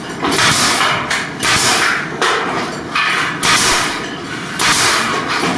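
A hand tool worked in strokes against the ceiling's plasterboard and wood reinforcement: five harsh, noisy strokes, each about half a second long, coming about a second apart.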